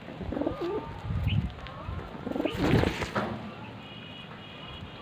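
Pigeons cooing, low calls about a second in and again around three seconds, with a few faint high chirps.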